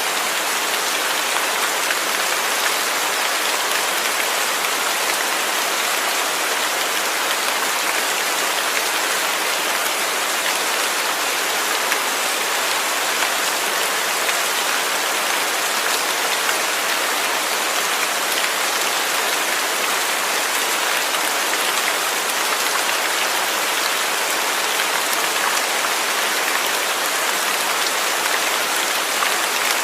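Steady rainfall, a dense even hiss of many raindrops on surfaces.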